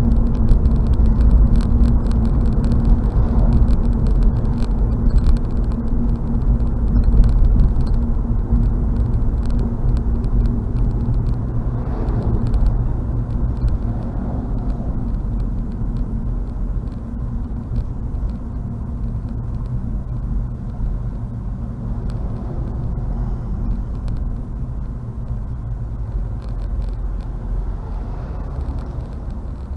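Road and engine noise of a moving car heard from inside the cabin: a steady low rumble that slowly gets quieter through the stretch.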